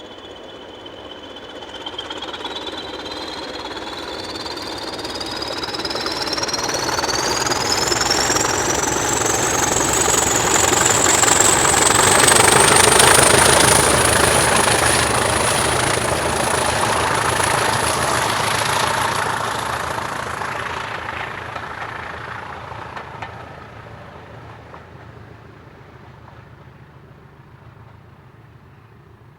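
BR Class 20 diesel locomotive, with its English Electric 8SVT engine, working hard as it passes. Its turbocharger whistle rises steadily in pitch over the engine clatter, then the sound dies away as the locomotive moves off.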